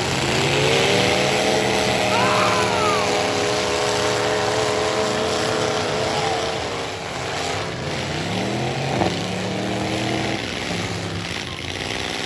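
Full-size stock pickup trucks' engines revving hard in a demolition derby heat, pitch climbing as they accelerate, with a short impact about nine seconds in.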